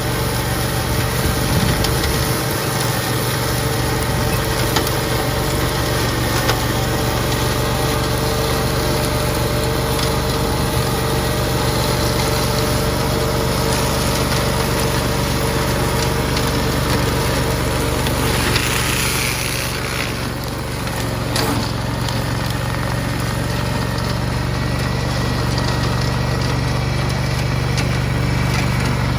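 Tractor engine running steadily while driving a flail mower, with a brief dip in level about two-thirds of the way through.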